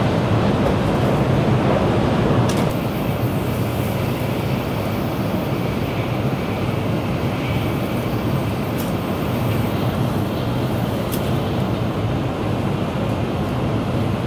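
Passenger train running, heard from inside the car: a steady low rumble of wheels and motor. About two and a half seconds in it becomes slightly quieter, and faint clicks come twice later on.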